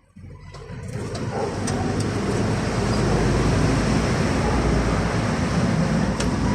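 A motor vehicle running nearby: a steady rushing noise with a low rumble that swells over about the first two seconds and then holds, with a few faint clicks.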